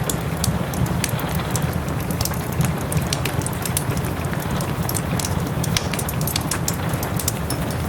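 Wood fire crackling with frequent irregular pops and snaps over a steady hiss of soft rain.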